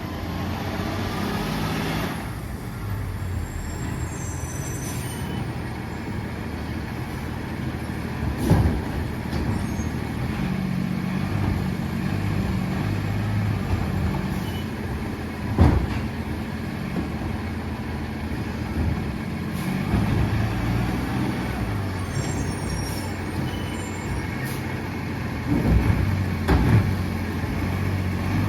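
Freightliner M2 garbage truck running, with a hiss of air in the first two seconds and loud, sharp bangs about four times: once around a third of the way in, once about halfway, and twice close together near the end.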